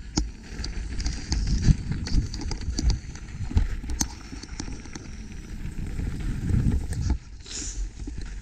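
Mountain bike clattering over a rough downhill trail, with irregular knocks and rattles from the bike, and wind rumbling on the camera microphone.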